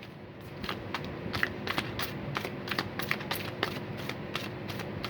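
A deck of oracle cards being shuffled by hand: a run of quick, irregular card flicks and clicks, several a second.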